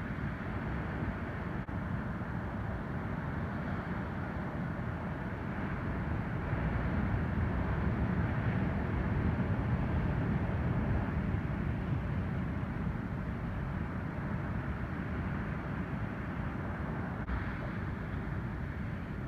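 Ocean surf from an incoming typhoon swell: waves breaking and washing up the beach as a steady low rush. It swells louder about seven seconds in, then eases off.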